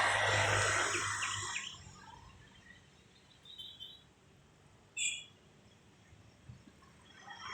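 Short high bird chirps: a faint one about three and a half seconds in and a sharper one about five seconds in. A steady rushing noise with a low hum fades out over the first two seconds and comes back near the end.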